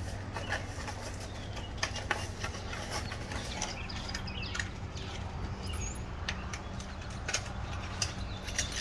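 Scattered light clicks and rustles of parts being handled by hand, over a steady low hum, with faint bird chirps now and then.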